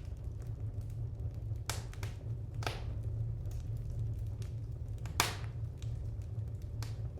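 Wood fire crackling in a fireplace: irregular sharp pops and snaps over a steady low hum, with the loudest pop about five seconds in.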